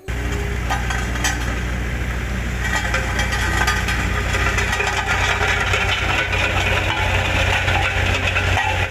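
A motor engine running steadily at a constant speed, with a deep hum and a busy rattle over it; it starts and cuts off abruptly.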